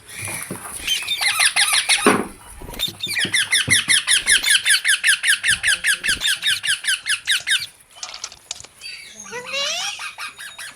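Green parrot calling in a fast run of short, squeaky repeated chirps, about seven a second, from about three seconds in until nearly eight seconds, after a shorter run at the start; a few short rising squeaks follow near the end.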